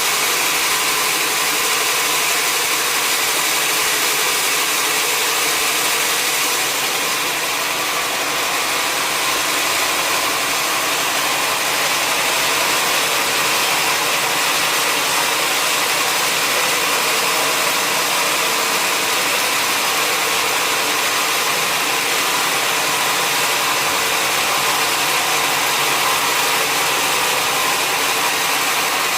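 Sawmill machinery running steadily: a constant engine drone with a hiss, level throughout with no breaks.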